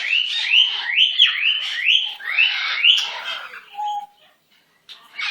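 Pet parrot calling a quick run of rising chirps, about two or three a second, that stops about three seconds in.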